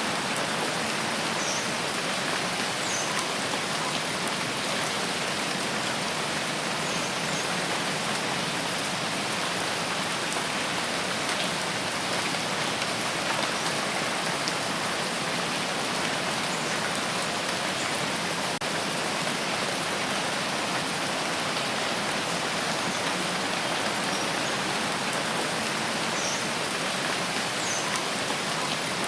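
Steady rain falling and pattering on surfaces, an even hiss that stays level throughout.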